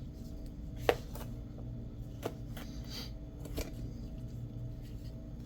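A few sharp clicks and taps from handling scissors and adhesive Velcro on a work surface, the loudest about a second in, over a steady low hum.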